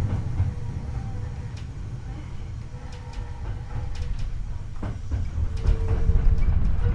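Hankyu 8300 series electric train running, heard from the car floor above the bogie: a low rumble of wheels on rail with scattered sharp clicks. It dips in level midway and builds again. A faint steady tone comes in briefly near the end.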